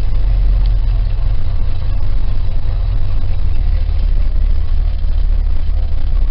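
A 1968 Cadillac's V8 idling low and steady on the choke, moments after a cold start. The owner says it doesn't idle well on the choke and puts it down to a carburetor that needs going through.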